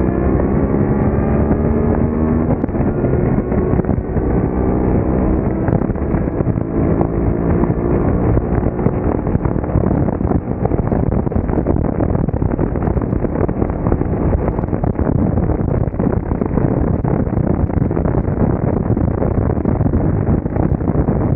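An engine speeding up, its pitch rising over the first couple of seconds and then holding steady, under a heavy rush of wind buffeting the microphone while riding. The engine tone fades into the wind noise about halfway through.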